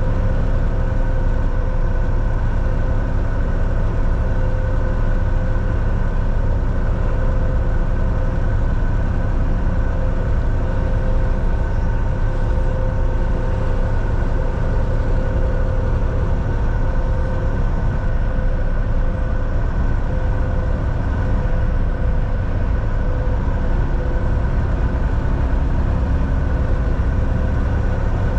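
Volvo VNL 760 semi-truck cruising, heard from inside the cab: a steady engine drone with a low road rumble, holding one pitch throughout.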